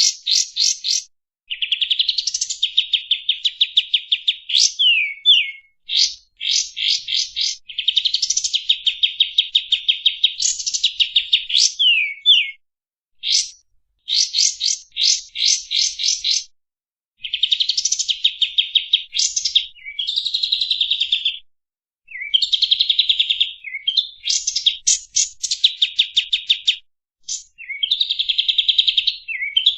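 Kapas tembak songbird singing: fast, loud trains of sharp, high chirps and buzzy trills in phrases of one to three seconds, separated by brief pauses and broken by a few quick downward-slurred notes.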